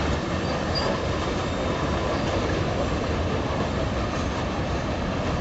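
Freight train cars rolling past on the main line: a steady rumble and rattle of steel wheels on rail, with a couple of faint, brief high wheel squeals.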